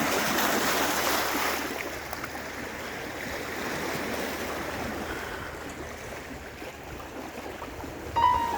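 Steady rushing of water and wind, louder for the first couple of seconds. Music comes in near the end.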